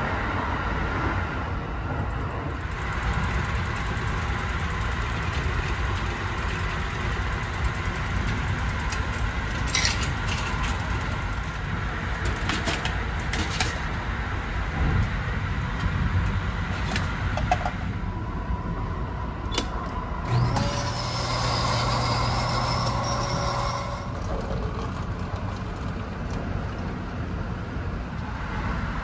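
Steady running noise inside the car of a Kintetsu Hinotori electric train, with scattered clicks and knocks. About twenty seconds in, a steady machine hum with a higher whir comes in for about three and a half seconds, then stops.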